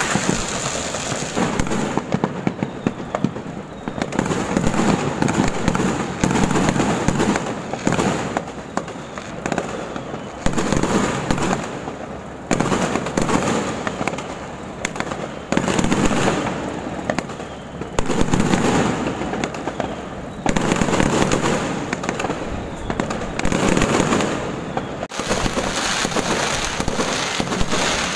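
Fireworks going off without a break: a dense crackle of bangs and pops that swells in loud waves every two to three seconds.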